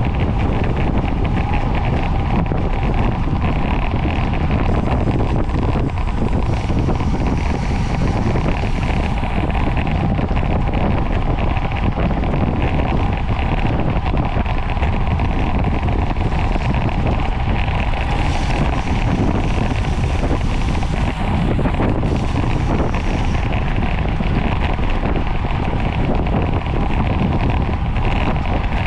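Wind rushing over the microphone of a camera on a bicycle racing at speed: a loud, steady rumble with a faint even hum underneath.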